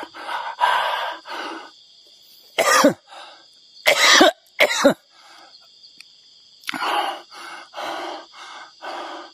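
A man coughing three times in quick succession, with heavy, rhythmic breathing before and after, about two breaths a second near the end. A steady high whine runs underneath.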